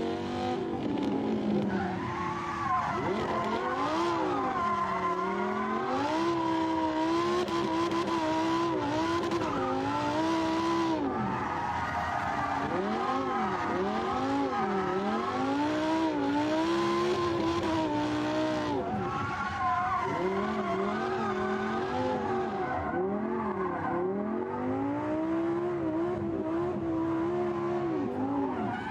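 Race car engine revving up and down again and again, its pitch rising and falling every second or two, with tyre squeal.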